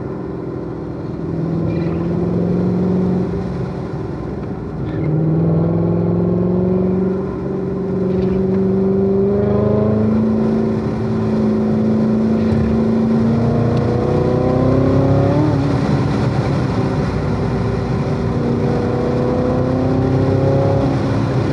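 Chevrolet C7 Corvette Z06's supercharged V8 under hard acceleration on track. The engine note climbs steadily and drops back sharply about 5, 10 and 15 seconds in, then climbs slowly again toward the end.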